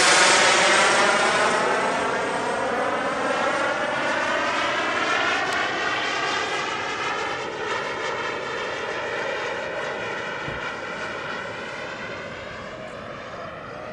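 Radio-controlled turbine jet's engine whine, a stack of steady tones, loudest at first and dropping in pitch as the jet passes close. The whine then levels off, rises a little about eight seconds in, and slowly fades as the jet flies away on its landing approach.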